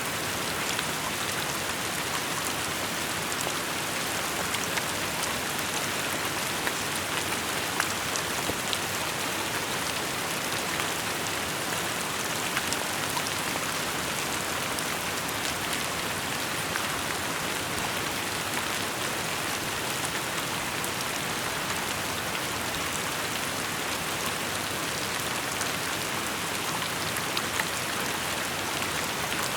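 Steady rain falling, a continuous hiss with many small drops pattering on surfaces.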